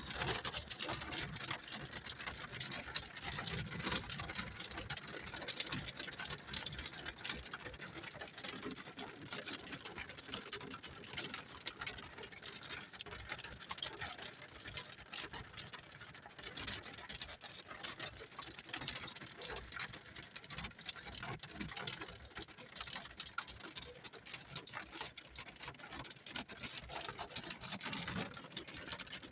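Pea-size hail and rain pelting the roof and windshield of a Chevy Tracker, heard from inside the cabin: a dense, steady rattle of rapid ticks.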